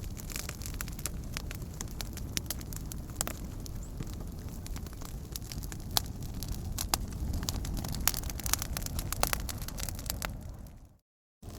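Wood campfire burning, with frequent sharp crackles and pops over a steady low rumble of the flames. Near the end it fades out to a moment of silence and then comes back.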